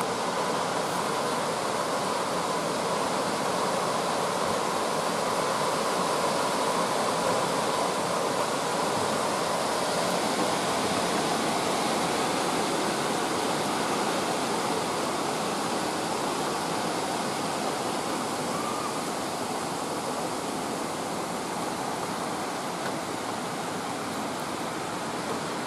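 Rain falling steadily, an even noise without breaks.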